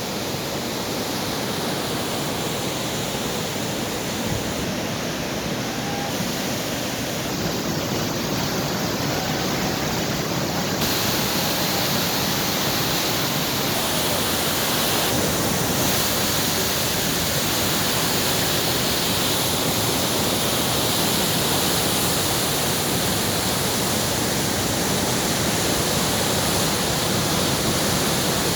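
Fast-flowing floodwater rushing in a steady wash of noise, growing a little louder and brighter about eleven seconds in.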